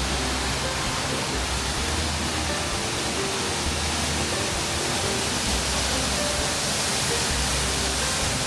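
Steady, loud rushing of a large waterfall close by, an even wash of water noise with no breaks.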